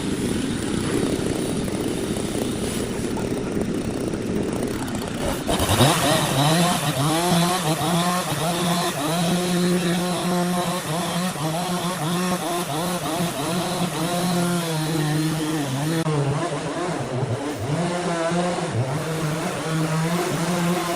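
An engine running. About five seconds in it comes up to a steady pitch that wavers up and down, as if under changing load; before that there is a rougher, noisier sound.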